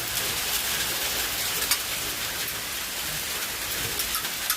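Hail and rain falling in a steady hiss, with many sharp ticks of hailstones striking.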